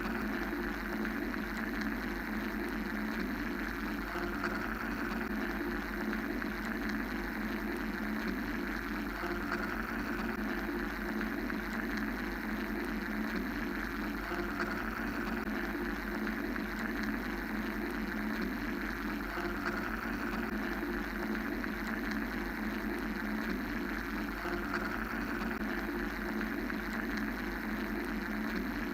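Steady mechanical white-noise drone: a low rumble and hum under a hiss that slowly swells and fades about every ten seconds.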